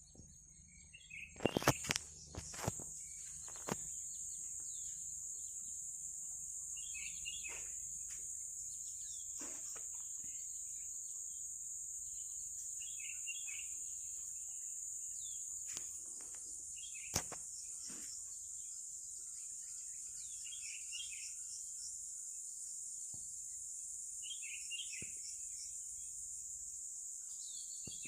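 Steady high-pitched insect drone, with short bird chirps every few seconds and a few sharp clicks, the loudest cluster a little under two seconds in and a single sharp click at about seventeen seconds.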